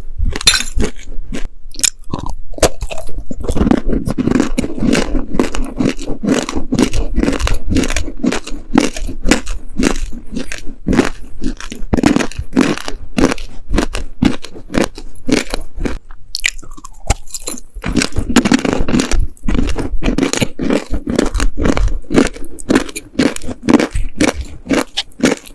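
Dry, sandy baked clay cookies being bitten and chewed close to the microphone: a dense run of loud, gritty crunches, thinning briefly past the middle before the chewing picks up again.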